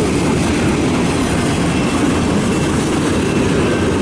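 Freight cars of a mixed freight train rolling past, a loud, steady rumble of steel wheels on rail with a faint high thin tone above it.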